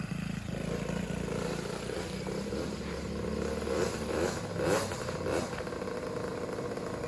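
Small motocross dirt bike engine running, with a few short throttle blips about four to five seconds in.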